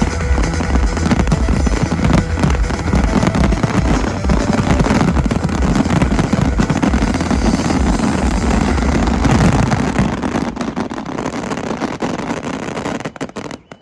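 Fireworks finale barrage: a continuous mass of rapid bangs and crackling with deep thuds beneath, thinning out after about ten seconds and dying away near the end.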